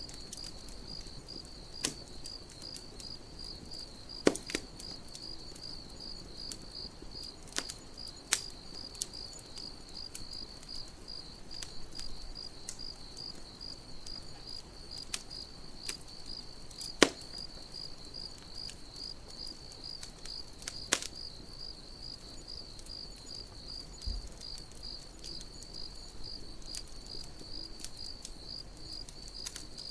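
Crickets chirping in a steady, even pulse, with a campfire crackling underneath: scattered sharp pops and snaps of burning wood, a few of them louder than the rest.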